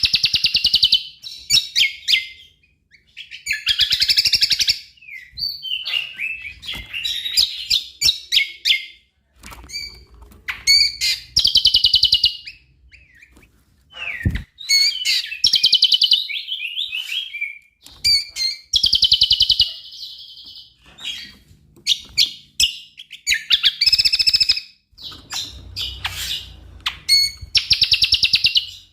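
Cucak kombo singing loud, varied song. Bursts of rapid trills and chattering phrases come one after another every couple of seconds, with short pauses between.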